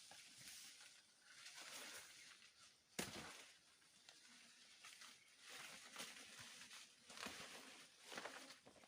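Faint rustling and swishing, in several soft passes a second or two apart, with one sharp knock about three seconds in.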